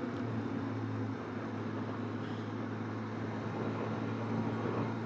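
Benelli TRK 502X's parallel-twin engine running at a steady speed, a low even hum under a constant rush of wind and road noise.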